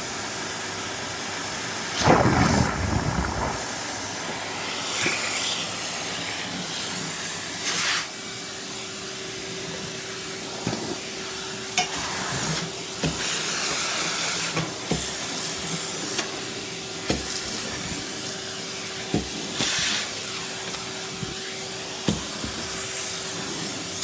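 Numatic Henry cylinder vacuum cleaner running with a steady rushing hiss, surging louder every few seconds as the nozzle sucks up bits of snack food from the floor. The loudest surge comes about two seconds in.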